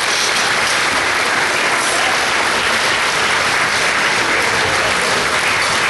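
Audience applauding steadily, welcoming an award winner called up to the stage.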